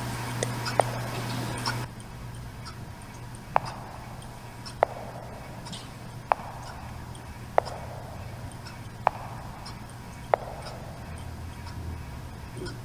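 Slow, regular ticking, one sharp tick about every one and a quarter seconds, over a steady low hum.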